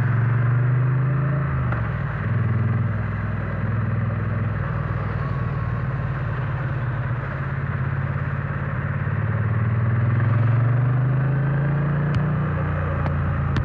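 Triumph Bonneville T100 parallel-twin engine running under way, its note steady, then rising as the bike accelerates about two-thirds of the way in and dropping back near the end, over wind and road noise. A few sharp clicks come near the end.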